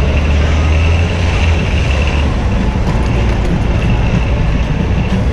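Busy city street traffic heard from a moving bicycle: steady road noise, with a large vehicle's engine running close by for the first two seconds or so.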